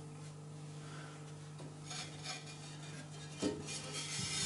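Scraping and light clinks as a chamotte firebrick plate is worked loose and lifted out of a wood stove's firebox, with the sharpest clatter a little past halfway, over a faint steady hum.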